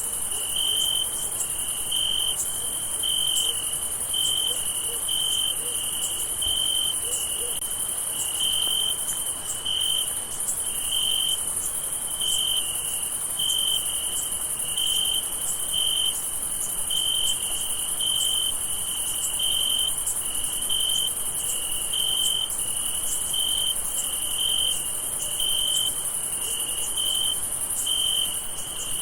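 Night chorus of crickets: a steady high trill of many insects, with a nearer cricket chirping in short, even pulses about once a second.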